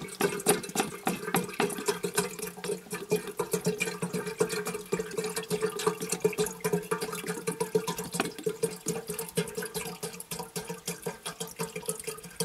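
Water pouring into a kettle, a steady splashing stream as the kettle fills.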